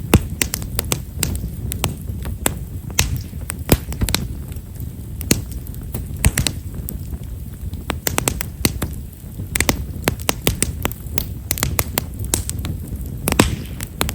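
Himeshara (Japanese stewartia) firewood burning, with many small, sharp crackles and pops at irregular intervals over a low, steady rumble of the fire.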